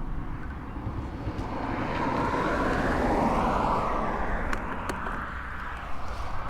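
A vehicle passing by: a rush of noise that swells to a peak about three seconds in and then fades, its tone dropping as it goes past, over a steady low rumble.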